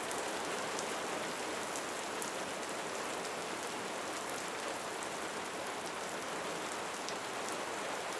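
Steady rain falling on a roof, with scattered single drop ticks over an even hiss.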